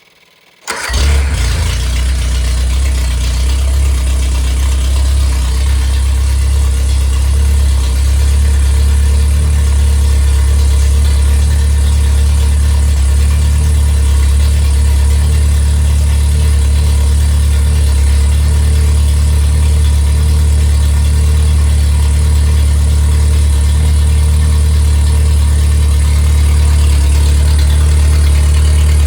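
Freshly rebuilt MG Midget 1500 inline four-cylinder engine, performance-built with a 270 cam and raised compression, starting under a second in and catching at once, then idling steadily.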